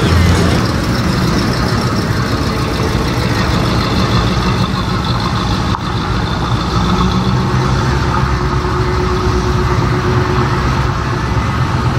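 Engine of a classic American muscle car idling with a steady low rumble; from about halfway, a Pontiac Trans Am's V8 rolling slowly along at idle.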